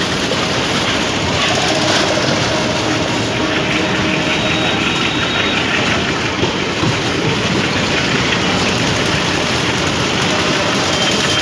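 Steady running noise of a moving passenger train heard from an open coach window: wheels rolling on the rails as the train pulls out of the station.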